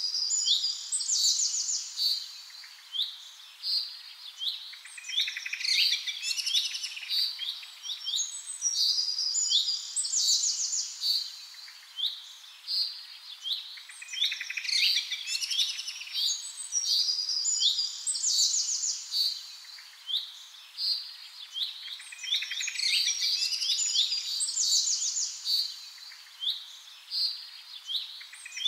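Birds chirping and singing, with quick trills and short calls coming in clusters every few seconds.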